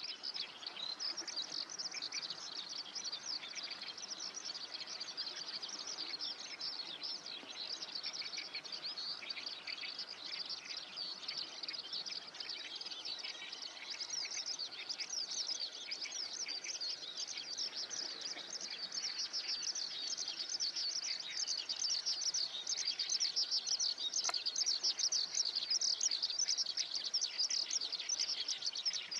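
Chorus of many small birds chirping high and fast, an unbroken tangle of calls that grows somewhat louder in the last third.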